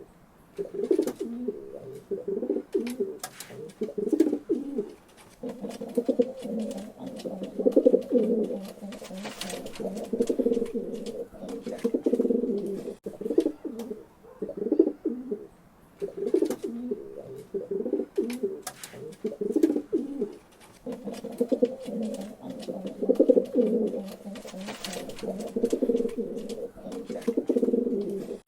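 Pigeons cooing continuously, low throaty coos overlapping in swells every couple of seconds, with scattered faint sharp clicks.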